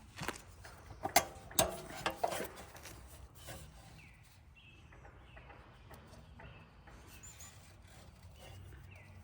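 Several sharp clicks and knocks in the first two and a half seconds, then faint rubbing and scraping.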